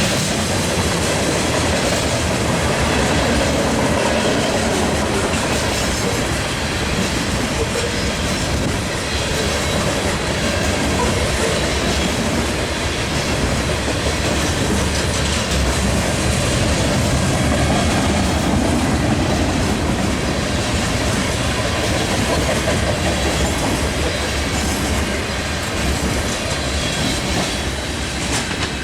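Freight train cars rolling steadily past, with wheels clacking over the rail joints and a loud, continuous rumble of wheels on rail.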